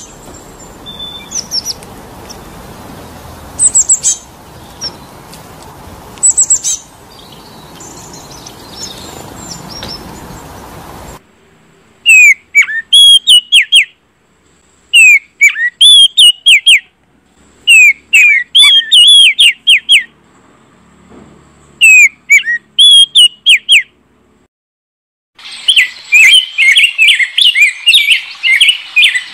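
Songbirds chirping: a few sparse high chirps over a steady background noise for the first ten seconds or so, then sharp, repeated chirped phrases in short bursts with pauses between, ending in a dense run of chirping.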